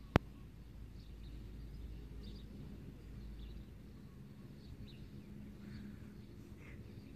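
Faint, scattered bird chirps over a low steady outdoor rumble, with one sharp click just after the start.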